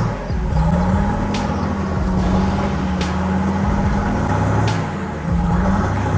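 Heavy truck's diesel engine running under load, its note dipping briefly near the start and again about five seconds in, with a few faint clicks.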